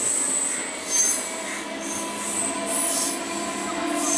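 Electric multiple-unit (EMU) local train rolling past, with high-pitched wheel squeal that comes and goes over a steady rolling rumble. It is briefly louder about a second in.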